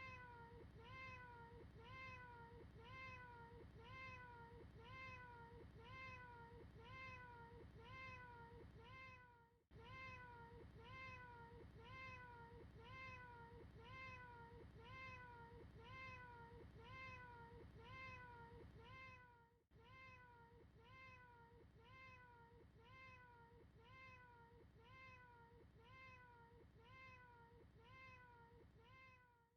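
A faint cat meow repeated over and over, about twice a second, each call identical, with a short drop-out twice where the loop restarts.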